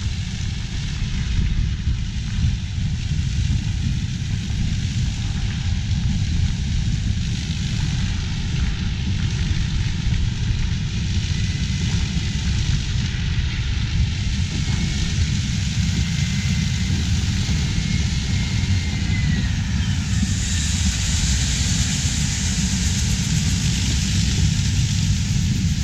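Heavy corn-harvest machinery running steadily, a low rumble with a hiss over it that grows brighter about three-quarters of the way through.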